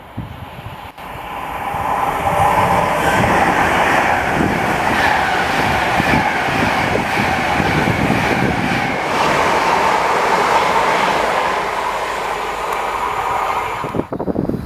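Train passing on the rails, with wheel and rail noise over a low rumble. It builds over the first two seconds, stays loud and steady, then cuts off abruptly near the end.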